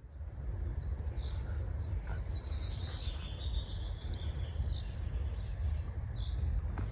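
Outdoor ambience: small birds chirping and singing, with a falling run of high notes a few seconds in, over a steady low rumble.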